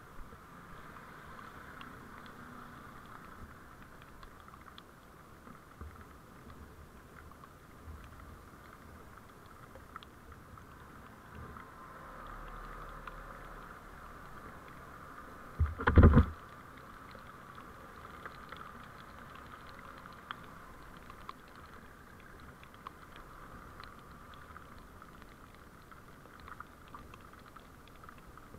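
Steady, muffled vehicle driving noise picked up by a dashcam's microphone, with faint ticks and rattles. A little past halfway there is one loud, brief thump.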